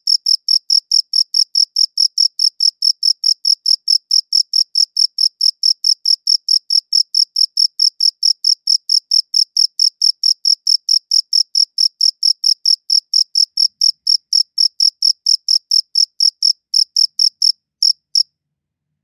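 Cricket chirping: short, high-pitched chirps repeated very evenly at about four or five a second, then stopping suddenly near the end.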